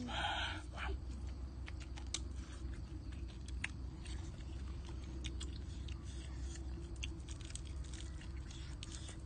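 Chewing and eating fried fish by hand: scattered small clicks and crackles of mouths and fingers working the fish, with a brief louder sound in the first second. A low steady rumble runs underneath.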